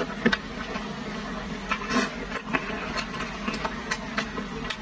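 A person chewing a mouthful of food, with short wet smacks and clicks at irregular intervals, over a steady background hum.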